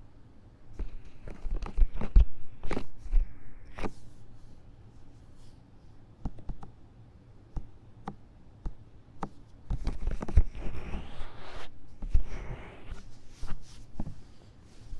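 An ear-cleaning tool scratching and scraping fast inside the silicone ear of a 3Dio binaural microphone: dense scratchy rubbing with sharp clicks. It comes in two bursts, one from about a second in and one around ten seconds in, with sparse single clicks between them.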